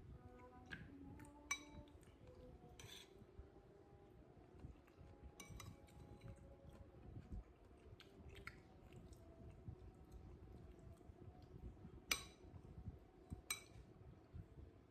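Spoon clinking against a plate while eating: a handful of sharp separate clinks, the loudest about twelve seconds in, over faint background music.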